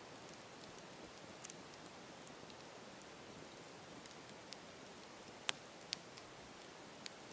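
Campfire burning: a soft steady hiss with scattered sharp crackles and pops of the burning wood, the loudest two a little past halfway.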